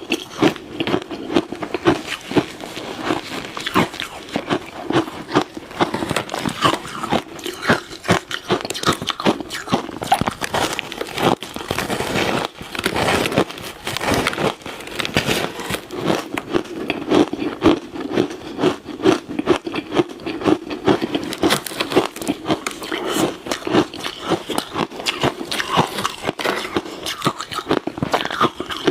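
Ice being bitten and chewed close to the microphone: a continuous run of sharp, rapid crunches and cracks.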